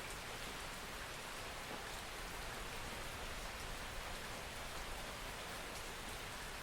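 Steady rain, a continuous even hiss with faint scattered drop ticks.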